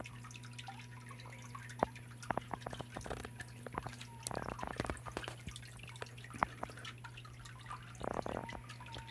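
Small waterfall in a garden biotope pond, water trickling and dripping: irregular drips and splashes, busier around the middle and again near the end, over a steady low hum.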